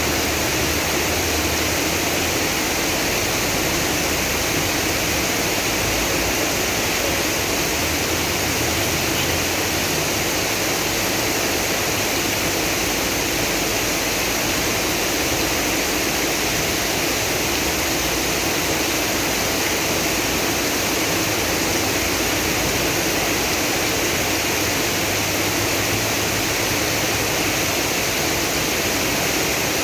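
Heavy rain pouring down with rushing water, a steady loud hiss that does not let up.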